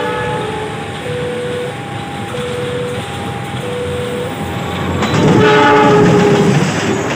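Diesel locomotive hauling a passenger train approaches and passes close by. Its multi-note horn sounds about five seconds in over rising engine rumble and wheel noise.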